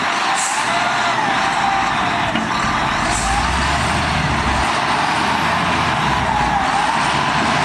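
Heavy earthmoving machinery running, its diesel engine working steadily, with a whine that wavers up and down in pitch.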